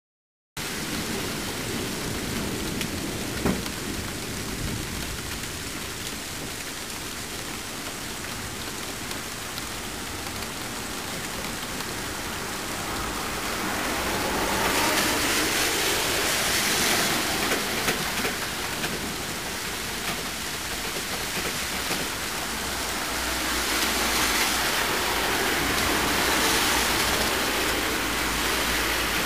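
Heavy thunderstorm rain, a steady hiss that swells louder twice, about halfway through and again near the end. A single sharp click sounds a few seconds in.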